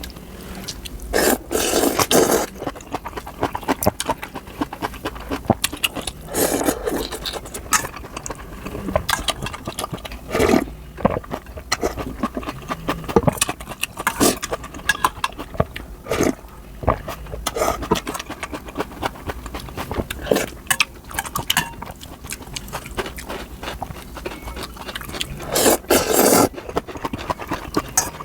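Close-miked eating of noodle soup and kimchi: several long slurps of noodles, about a second each, with wet chewing and a run of small clicks and smacks between them.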